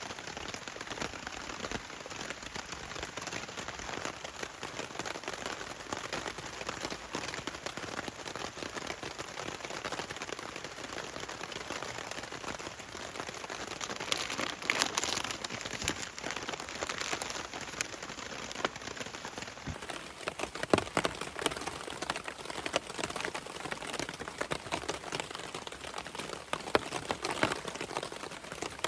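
Heavy rain falling, a dense patter of drops with a brief louder rush of hiss about halfway through. About two-thirds in, the patter turns sharper, with more distinct drop hits.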